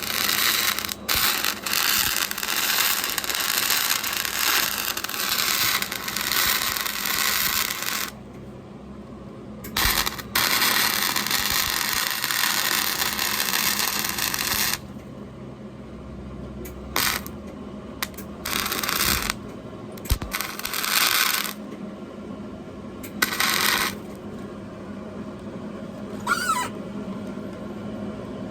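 Electric arc welding on thin sheet metal: the arc crackles continuously for about eight seconds, runs again for about five seconds, then comes in several short bursts of a second or less as the weld is laid along the corner in stops and starts.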